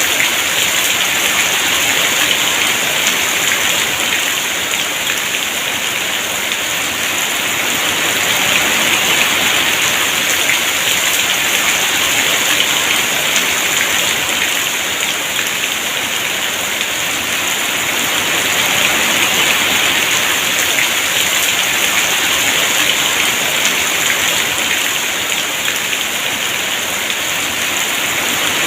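Heavy rain pouring steadily, a dense even hiss that swells gently in loudness now and then.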